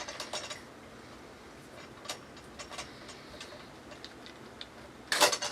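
Light clicks and ticks of small metal lamp parts being handled, with a louder burst of clinking and rattling near the end.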